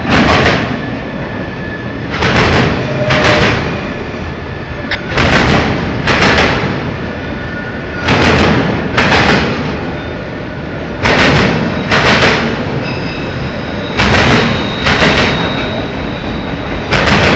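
Freight cars of a passing mixed freight train rolling by, their wheels clacking in pairs as each coupled pair of trucks goes past, about every three seconds, over a steady rail rumble.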